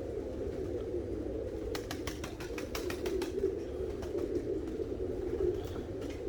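Tippler pigeons cooing steadily in the loft. About two seconds in there is a short run of quick clicks.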